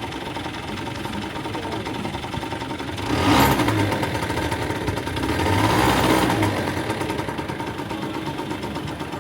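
Small go-kart engine running steadily, growing louder twice: about three seconds in and again around six seconds in.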